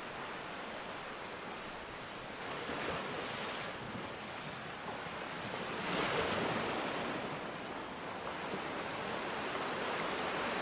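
Sea waves washing onto the shore, one surge about three seconds in and a louder one around six seconds, over a steady wash of water.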